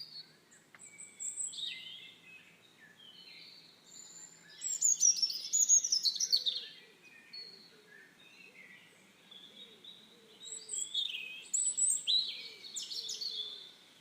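Wild birds singing and chirping in overlapping phrases, in bursts, loudest about five seconds in and again near the end.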